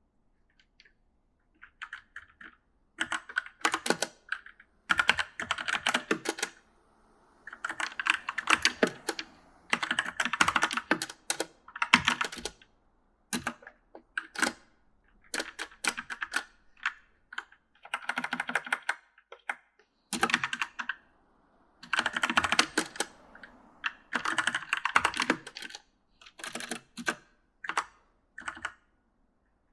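Typing on an e元素 mechanical gaming keyboard: runs of rapid keystroke clicks lasting a second or two, broken by short pauses, starting about two seconds in.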